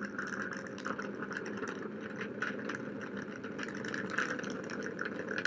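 Steady rumbling noise of a Falcon 9 rocket in ascent, heard through the launch webcast audio, with a faint crackle.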